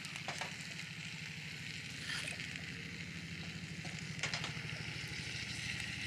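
Steak sizzling over a wood fire: a steady frying hiss with a few sharp crackles or clicks, over a low steady hum.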